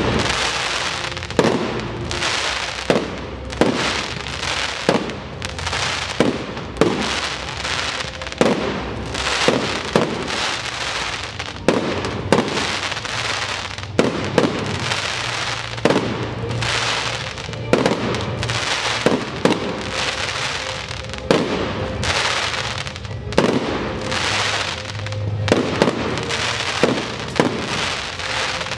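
Aerial firework display: shells and rising comets bursting in a rapid, uneven string of bangs, about one or two a second.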